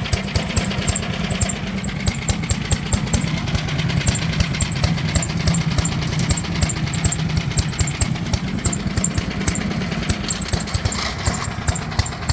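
Wood chipper's small gasoline engine running steadily, with a rapid, continuous clatter of knocks over its hum.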